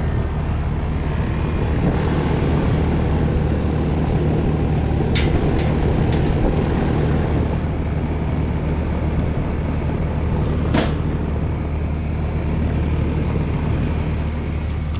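Air conditioner condenser unit running with its newly replaced fan motor: a steady low hum under a rush of moving air. A few sharp clicks come about a third of the way in and again past two-thirds.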